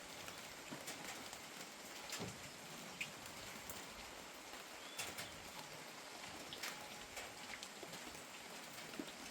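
Light steady rain, a soft even hiss with scattered individual drops ticking sharply on a surface.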